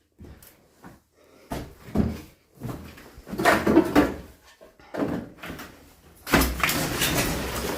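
Irregular knocks and scraping noises indoors: several short knocks, then a longer, louder scrape near the end.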